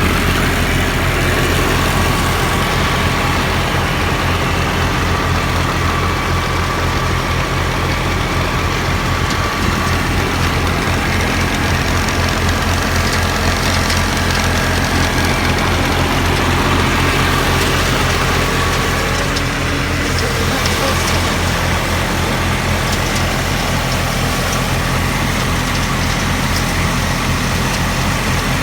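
Fiat 480 tractor's diesel engine running steadily at low speed, with an even low throb.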